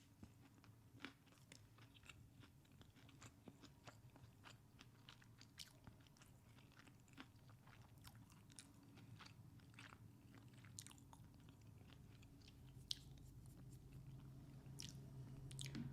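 Close-miked chewing and biting of Chick-fil-A food: quiet, irregular small crunches and wet clicks of the mouth. A low steady hum sits underneath and grows louder near the end.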